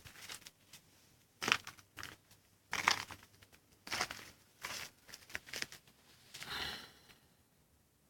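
Dry material crunching and crumpling in about seven short, irregular bursts.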